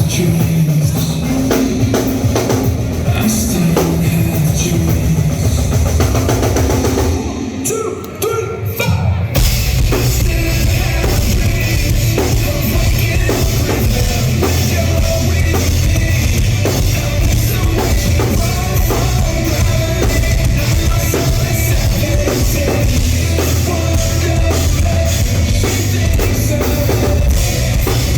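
Rock band playing live, loud, with a pounding drum kit and bass. The band drops away briefly about seven seconds in, and the full band comes back in about two seconds later.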